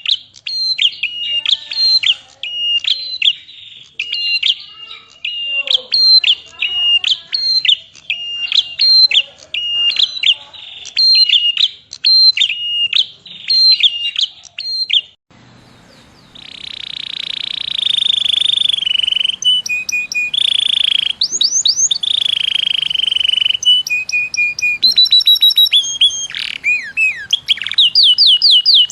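Recorded songbird calls from a mix of prinia, canary and white-eye song. The first half is a bird repeating short, sharp, high notes about twice a second. After an abrupt change about halfway, a different recording follows, with long rolling trills and fast runs of sweeping notes.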